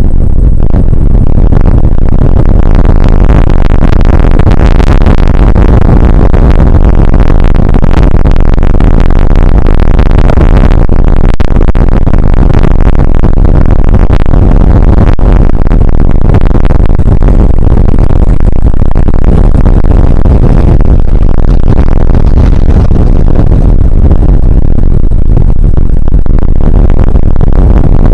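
Rain shower and wind on an outdoor weather camera's microphone: a loud, dense rushing with many small pattering hits, overdriven and distorted.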